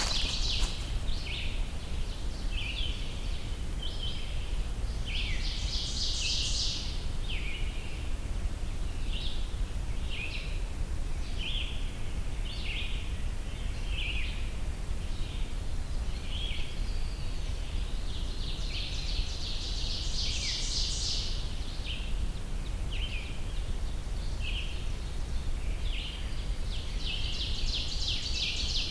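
Woodland songbirds singing: three louder high song phrases, each about two seconds long, about five seconds in, near the middle and near the end, with scattered short high notes between them over a steady low background rumble.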